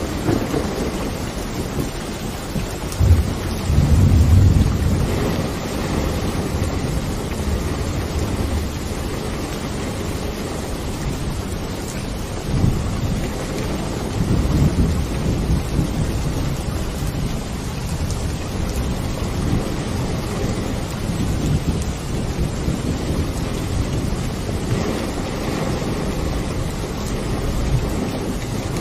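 Steady heavy rain with low rolling thunder rumbles, the loudest about three to five seconds in and fainter ones around twelve and fifteen seconds.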